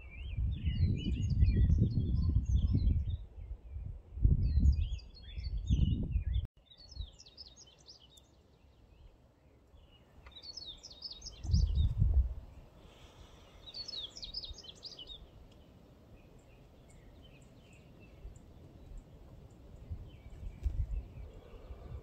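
Wild songbirds singing in repeated bursts of quick, high chirps, several seconds apart. Under the first part is a loud, gusty low rumble that cuts off abruptly about six and a half seconds in and comes back briefly around twelve seconds.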